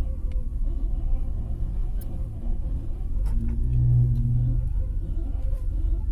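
Car in motion: steady low rumble of engine and road, with a faint thin high squeak drifting slightly in pitch over it. About three and a half seconds in, a louder low hum swells for about a second before easing off.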